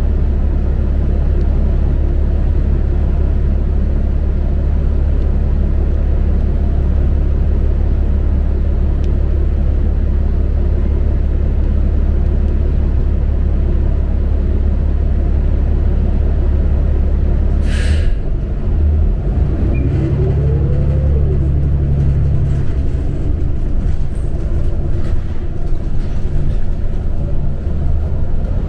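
New Flyer XD40 diesel transit bus heard from inside, its engine running with a steady low drone. About two-thirds of the way through comes a short, sharp hiss of air from the air brakes, followed by an engine note that rises and then falls.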